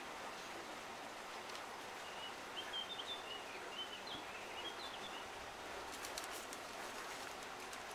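A small bird singing a run of short, high chirps over a steady outdoor background hiss, with a few faint ticks near the end.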